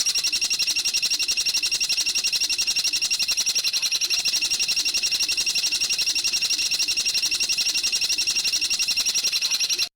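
A songbird's rapid, even trill of high notes, about eight a second, kept up without a break for some ten seconds. It starts and cuts off abruptly, as an edited recording played for training cage birds.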